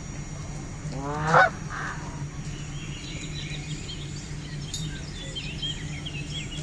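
A Canada goose gives one loud, rising honk about a second in, followed by a short second note. Small birds chirp faintly later on.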